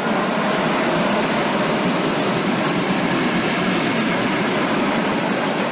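Roller coaster train rolling along its track, a steady loud rumble that swells in as it passes and eases off just after.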